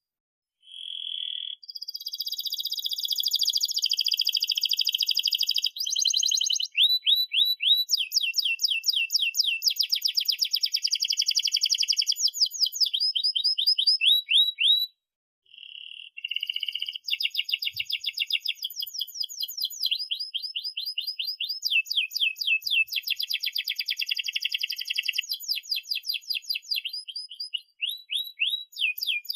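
Domestic canary singing a long song of fast rolls, each phrase a rapid run of repeated high notes, the phrases changing one into the next. The song breaks off briefly about halfway through and again near the end.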